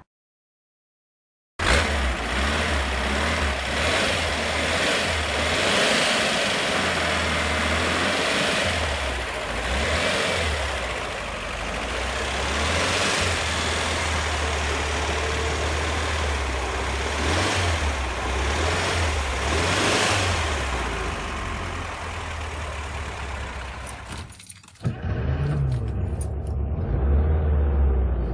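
An old car's engine running during a cold start, loud, its speed rising and falling as it is revved. About 25 seconds in it cuts off sharply, and an engine is heard running again.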